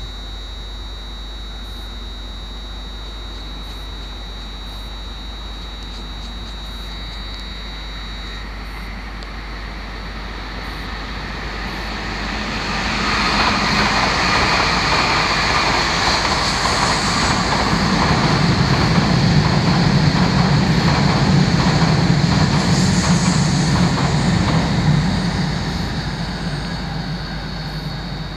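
A train running past the station platform: its rumble swells over a couple of seconds, stays loud for about ten seconds, then dies away near the end. Before it arrives, a steady high-pitched tone sounds and stops suddenly about eight seconds in.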